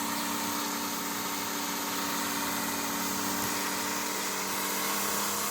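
Small electric motor of a homemade plastic-bottle helicopter spinning its propeller at a steady speed: an even hum and whine with a strong airy hiss.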